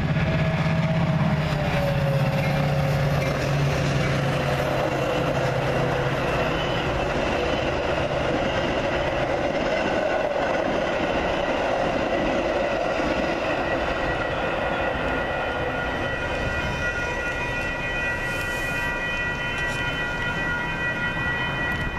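Metra diesel commuter train passing: the locomotive's engine hum is strong at first and fades within a few seconds, then the bilevel coaches roll by with a steady rumble and wheel clatter on the rails.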